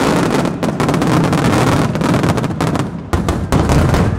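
Fireworks display: a loud, rapid, dense series of bangs and crackles from shells bursting overhead, over a continuous low rumble.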